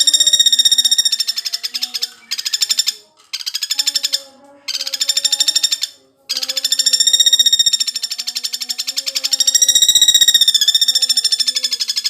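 Woodpecker (pelatuk bawang) giving rapid rattling trill calls in several bouts of one to three seconds, separated by short gaps.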